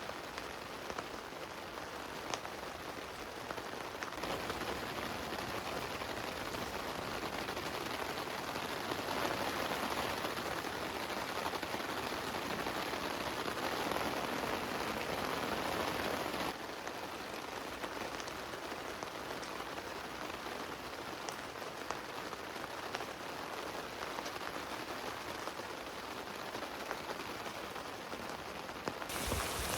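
Heavy rain falling on a tent: a steady hiss of rain with individual drops ticking through it. Just past halfway the sound abruptly drops to a slightly softer level.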